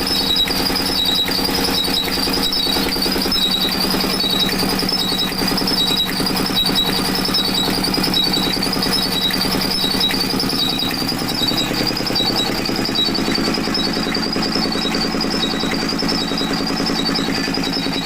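20 hp diesel engine running steadily, driving a tubewell turbine water pump, with a continuous high wavering squeal over its hum and short high chirps a little under twice a second.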